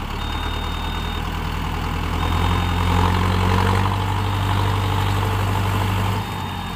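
Mahindra Arjun Novo 605 DI-MS tractor's diesel engine running, getting louder about two seconds in as it works harder, then dropping back suddenly near the end.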